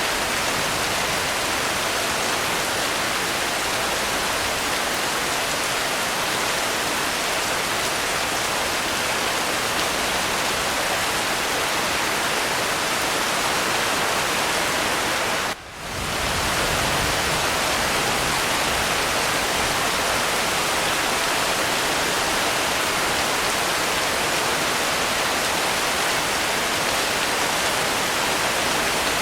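Steady heavy rain, a dense even hiss, that drops out for a split second about halfway through, like a splice in a looped recording.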